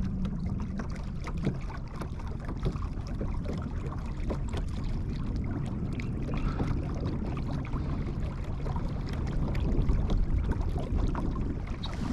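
Motorized kayak under way on an electric Minn Kota trolling motor: a steady rush of water and wind, with a faint low motor hum, growing a little louder near the end.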